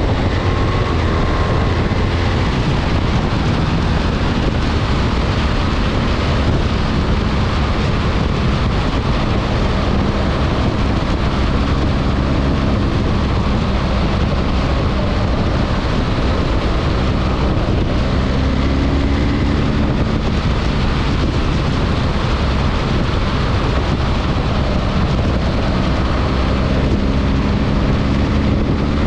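BMW R 1300 GS boxer-twin motorcycle engine running under way under heavy wind noise on the microphone, its note rising a few times as the bike pulls.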